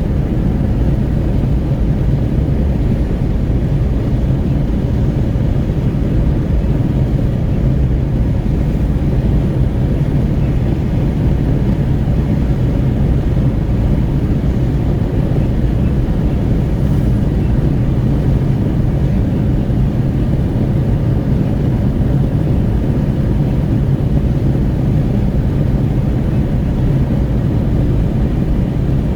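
Steady road and wind noise inside a Renault Kwid 1.0 cruising on the highway: a constant low rumble of tyres and engine with wind rushing at the window.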